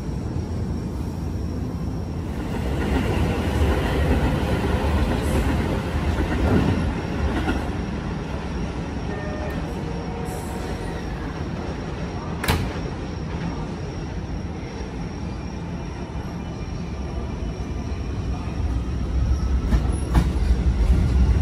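Keio 9000 series electric commuter train running into the platform and slowing to a stop, with a steady rumble of wheels on rail and a faint whine. There is a single sharp click about twelve seconds in, and the rumble grows louder again near the end.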